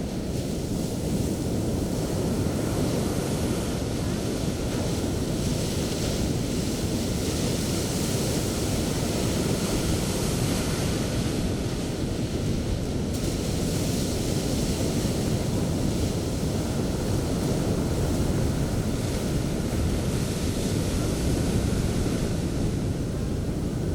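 Sea surf on a beach: a continuous rushing wash with a deep rumble underneath. Its hiss swells and eases every few seconds as the waves break and foam.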